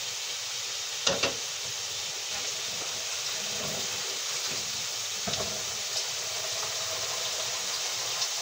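Chicken liver frying in a pan over a gas flame, a steady sizzle, with a couple of sharp clicks about a second in.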